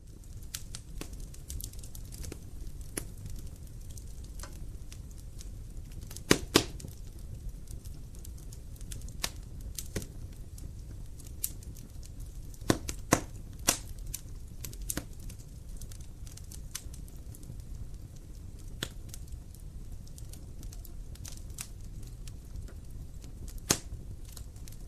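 Wood fire in a fireplace crackling: the flames make a steady low rumble under irregular sharp pops and cracks from the burning logs. The sound starts out of silence. The loudest pops come in small clusters about a quarter and half way through, with one more near the end.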